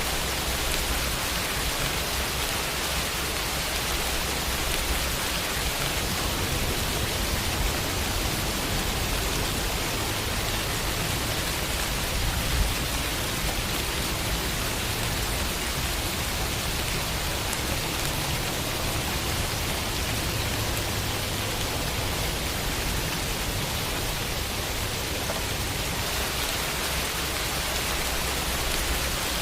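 Steady rainfall pattering on a window, an even hiss with a low rumble beneath it. There is one slightly louder drop or tap about halfway through.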